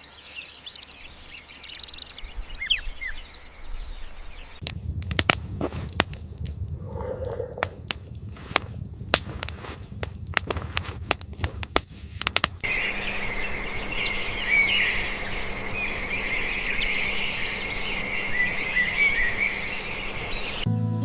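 Birds chirping, broken up in the middle by several seconds of sharp, irregular knocks over a low rumble; in the second half dense, continuous bird chatter.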